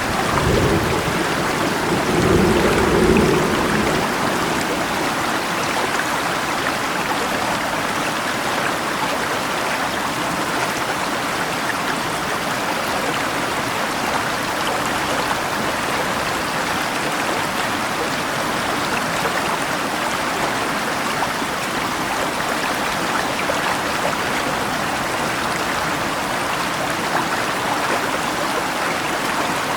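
Steady rushing of a river stream mixed with falling rain. A low rumble of distant thunder swells and fades in the first few seconds.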